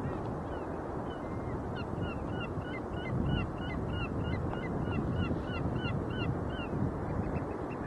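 Geese calling in a quick run of short, high honks, about three a second, over a steady roar of North Sea surf.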